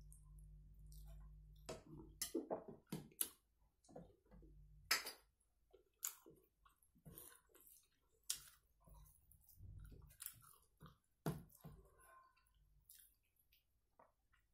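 Someone eating rice and mutton curry by hand: quiet chewing with scattered sharp clicks and smacks. A faint low hum sits under the first two seconds.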